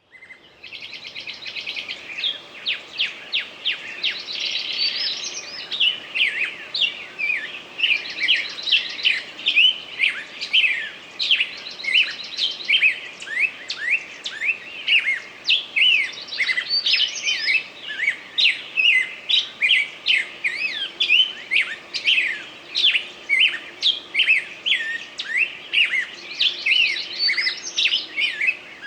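A songbird singing without pause: a quick stream of high chirps and whistles, broken by rapid buzzy trills about a second in, near nine seconds and again near the end.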